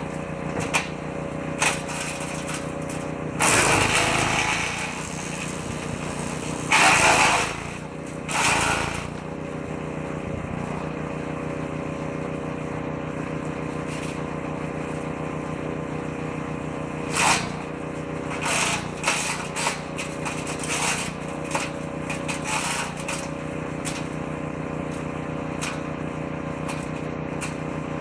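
Engine-driven woodchipper shredder running steadily, with loud bursts of chipping in the first third as branches are fed in a bit at a time, and a run of sharp cracks and knocks from wood in the shredder drum about two-thirds of the way through.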